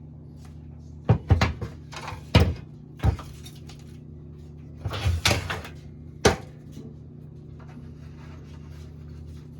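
Metal clanks and knocks from handling the VW Beetle muffler just cut free: a run of sharp hits in the first few seconds, a short cluster about five seconds in and one last clank, over a steady low hum.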